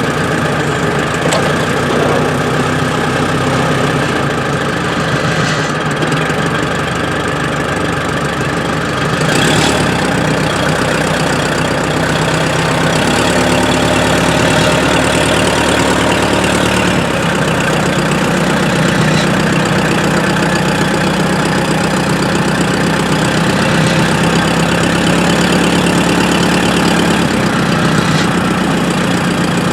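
An engine running steadily under a dense noise, with its pitch shifting slightly about nine seconds in, again near the middle and near the end.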